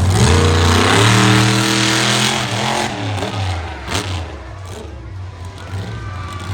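Monster truck engine revving hard, then easing off about three seconds in and running lower and quieter. A single sharp crack about four seconds in.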